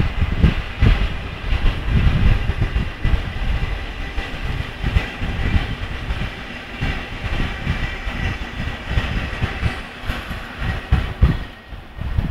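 Metro-North electric commuter train passing, its wheels clattering over the rails with a steady high whine. Wind buffets the microphone in irregular low gusts throughout.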